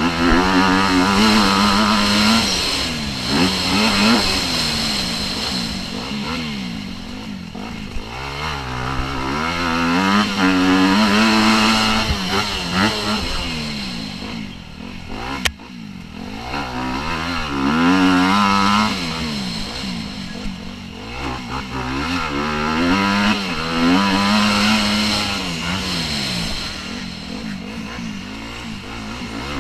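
Motocross bike engine revving hard and easing off again and again, its pitch rising and falling every second or two as the bike works through the gears, with a brief drop about halfway.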